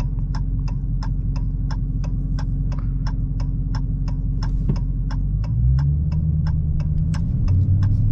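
Turn-signal indicator ticking evenly, about three to four ticks a second, over the low drone of the Challenger Hellcat's supercharged 6.2-litre V8, heard from inside the cabin. The engine note steps up in pitch about five and a half seconds in and again near the end.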